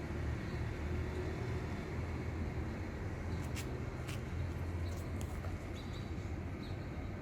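Steady low outdoor rumble, like distant traffic or wind. A few sharp clicks come in the middle and faint short chirps near the end.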